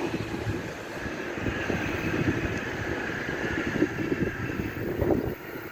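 A train running by on the line, its rumble easing off, with gusts of strong wind buffeting the microphone.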